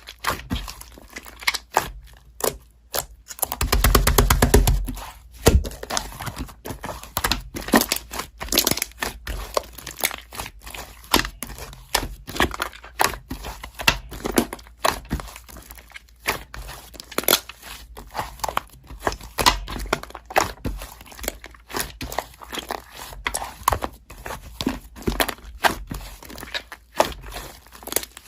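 Slime being squeezed and pressed by hand, making a rapid string of small clicks and crackles, with a longer, louder stretch about four seconds in.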